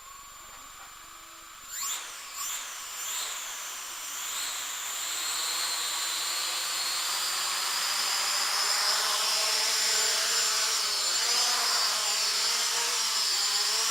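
Hubsan H502S quadcopter's motors and propellers spinning up in a rising whine about two seconds in, revving in a few short blips, then running steadily with a high whine that slowly climbs in level. This is the test run after a receiver board replacement, and the drone responds normally.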